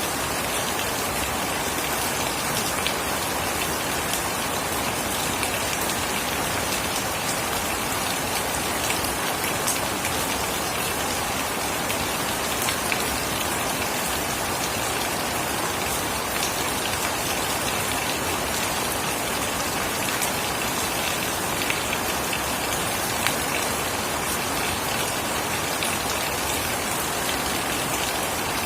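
Steady heavy rain falling, a dense even hiss with many small drop ticks on hard surfaces.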